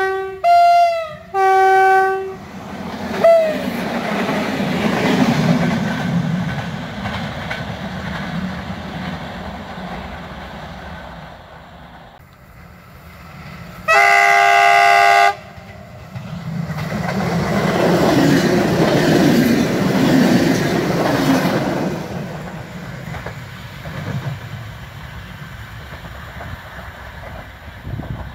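Locomotive horn sounding three short blasts, the second dropping in pitch, then a train passing with the rumble and clickety-clack of wheels on the rails. About halfway through, the horn sounds again in one steady blast lasting just over a second, and the passing noise swells once more before fading near the end.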